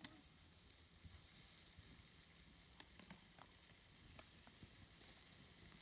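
Faint sizzling of sausages grilling on a grate over charcoal, with a few small scattered crackles.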